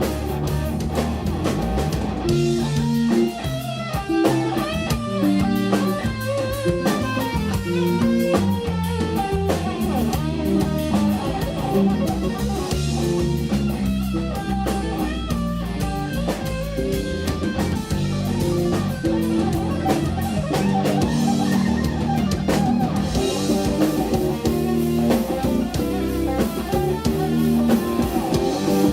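Live instrumental progressive rock played by a guitar, bass and drum kit trio: fast, intricate electric guitar lines over bass and drums.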